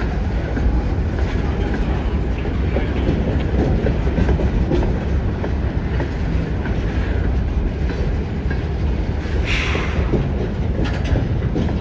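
Freight train rolling past: a steady heavy rumble with scattered short wheel clicks, and a brief brighter noise about nine and a half seconds in.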